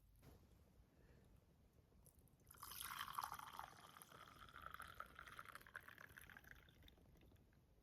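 Liquid being poured into a container, starting about two and a half seconds in and lasting about four seconds before it tails off.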